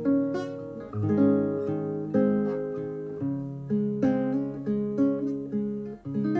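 Acoustic guitar strumming a chord progression, one chord after another with a fresh strum about every second, closer together in the second half; no voice.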